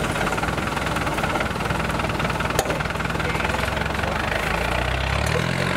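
Land Rover Defender 110's V8 engine running under load as it crawls up a rock step, its revs rising near the end.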